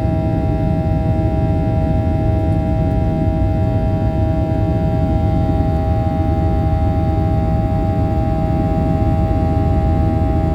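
Boeing 737-800's CFM56 jet engines running at steady power: a constant high whine over a heavy low rumble.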